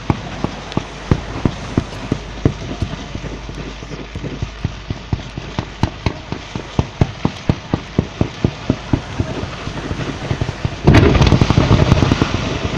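Fireworks display: a quick run of sharp bangs and pops, several a second. About eleven seconds in, a sudden much louder, denser barrage takes over.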